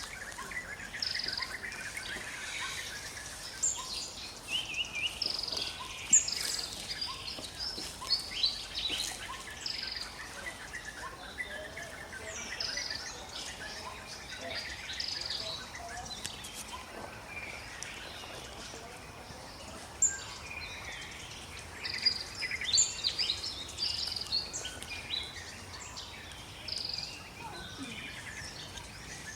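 Forest ambience: many birds chirping and calling, short high notes scattered irregularly, over a steady background hiss.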